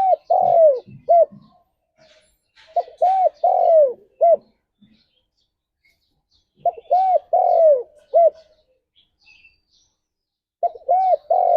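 Spotted dove cooing: phrases of a few short coos with a longer, falling coo and a short final note, repeated about every four seconds.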